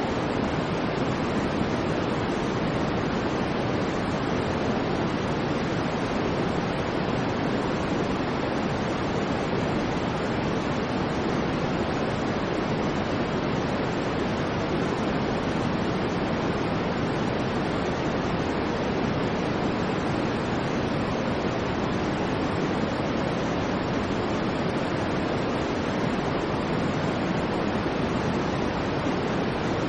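Steady artificial white noise: an even, unchanging hiss, with the most weight in the low middle.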